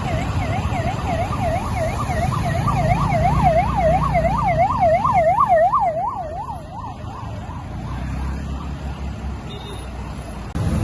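Police vehicle siren yelping, a fast rising-and-falling wail about three times a second that grows louder and then stops about seven seconds in, over the low rumble of vehicle engines and road traffic.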